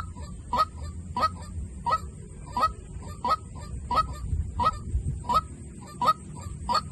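White-breasted waterhen call used as a lure: short honking calls repeating evenly, about one and a half a second, with fainter notes between them.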